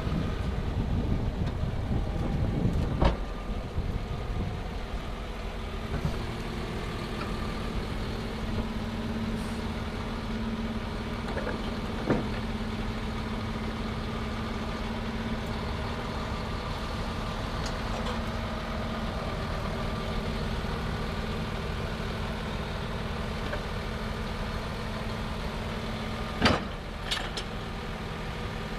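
Diesel engine of a 2011 International WorkStar 7600 plow truck idling steadily, a little louder and rougher for the first few seconds before settling. A few short sharp clicks stand out over the idle, one about three seconds in, one near the middle and two near the end.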